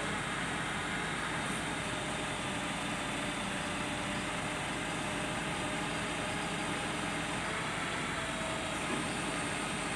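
A vehicle engine running steadily at a constant speed, with a low, even hum.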